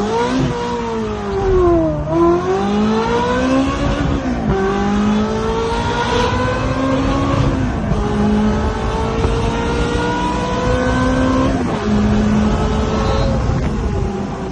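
Ferrari 360 Spider's V8 through a Capristo exhaust accelerating hard through the gears. The engine pitch climbs and drops back sharply at each upshift, about four times, then levels off and eases slightly near the end.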